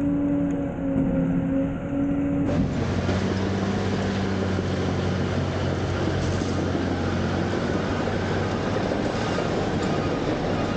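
Heavy garbage truck diesel engine running with a wavering hydraulic whine. About two and a half seconds in, the sound changes abruptly to a steady, dense engine drone.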